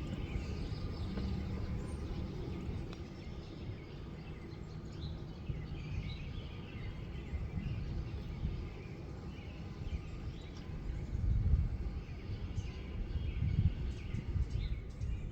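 Many small birds chirping and calling at once, short scattered chirps over a low background rumble that swells twice near the end.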